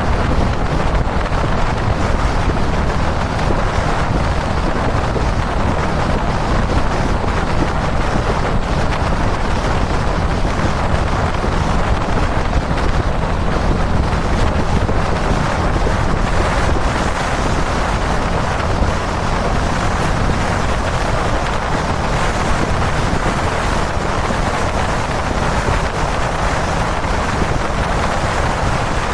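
Strong wind noise on the microphone at expressway speed, with the Kawasaki Dominar 400's single-cylinder engine running steadily underneath at a constant cruise.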